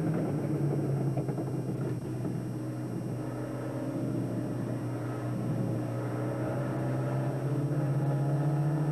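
Turbocharged engine of a Volvo Turbo Cup race car running hard at fairly steady revs, heard from inside the cabin.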